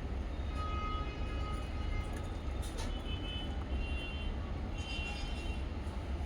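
Small pet parrots chirping faintly now and then over a steady low rumble, with a few light clicks.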